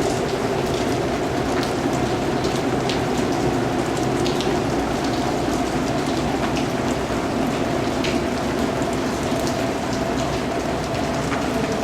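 Steady rain falling on a surface, a constant even patter with scattered sharper drop ticks.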